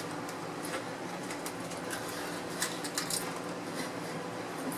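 Tortilla chips being chewed: a few sharp crunching clicks over a low steady hum.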